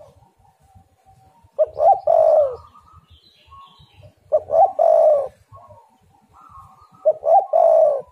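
Spotted dove (tekukur) cooing: three phrases a few seconds apart, each a couple of quick short notes running into a longer, falling coo. Faint chirps of another bird come between the phrases.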